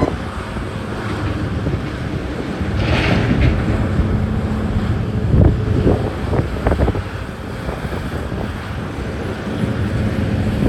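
Wind buffeting the microphone over the low, steady rumble of heavy diesel mining equipment. A short hiss comes about three seconds in, and several knocks follow a little past the middle.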